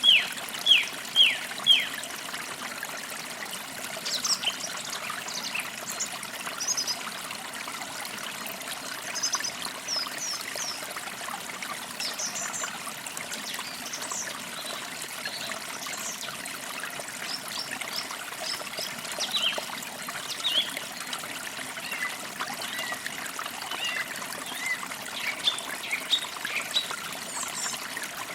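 Forest creek trickling steadily, with small birds chirping over it throughout. A quick run of loud, falling chirps comes in the first two seconds, then softer, higher chirps scattered across the rest.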